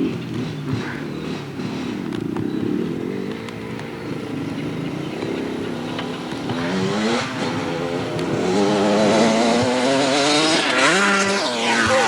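Dirt bike engine running and revving, faint at first and growing louder from about seven seconds in as it comes closer. Its pitch drops sharply near the end.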